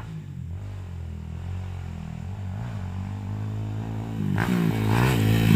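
Off-road motorcycle engine running, getting louder and revving up and down from about four seconds in.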